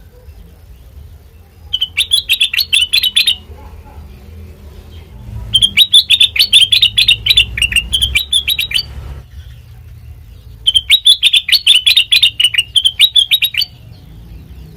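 Kutilang mas (a bulbul) singing: three loud bouts of rapid chattering notes, the middle one longest at about three and a half seconds, with pauses of about two seconds between them.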